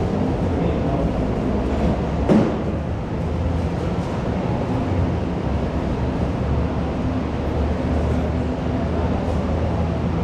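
School canteen ambience: a dense, steady hubbub of many people with a low rumble underneath, and a single sharp knock a little over two seconds in.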